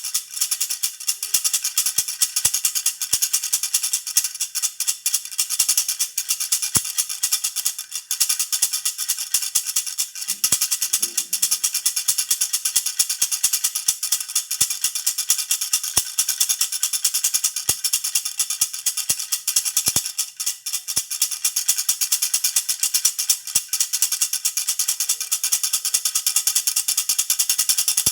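Baby rattle (jhunjhuna) being shaken continuously, giving a fast, steady jingling rattle with occasional sharper clicks.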